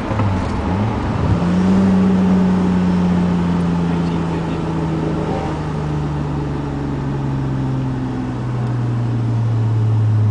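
Rebuilt Nissan Maxima VQ35 3.5-litre V6 running in gear during break-in driving. About a second in its note steps up, then falls slowly and steadily as engine speed drops.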